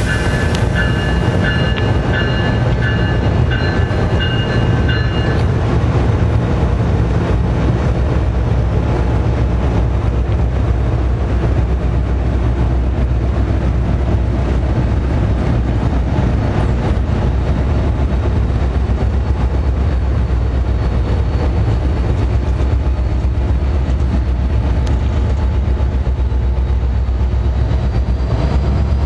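Diesel-hauled commuter train running past close by, its locomotive engine a steady low drone under the rumble of the cars. A bell rings in even strokes, about two a second, for the first five seconds or so, then stops.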